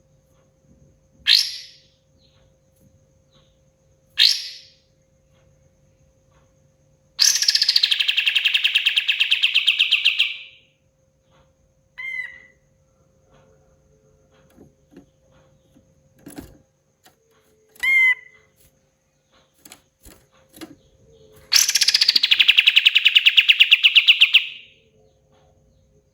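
Kapas tembak songbird singing: two short sharp notes, then a loud fast trill of rapidly repeated notes lasting about three seconds, a couple of brief chirps, and a second long trill near the end.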